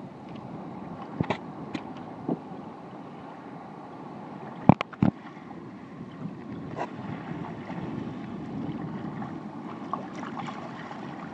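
Water and wind noise around a sea kayak under way, with a few sharp knocks and splashes, the loudest pair close together about five seconds in.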